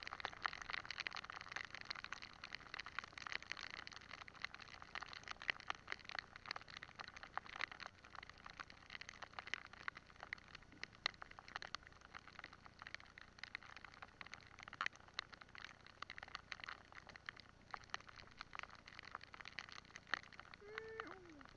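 Rain falling: a dense, uneven spray of small drop ticks, steady throughout. A short pitched sound comes near the end.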